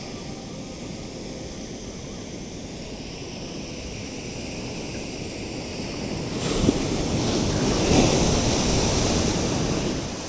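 Ocean surf on a beach: a steady wash of waves, then a wave breaking about two-thirds of the way in, swelling much louder and easing off again near the end.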